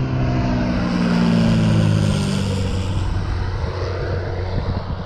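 A V-tail Beechcraft Bonanza passing low overhead on approach. Its piston engine and propeller drone drops in pitch as it goes by, then fades.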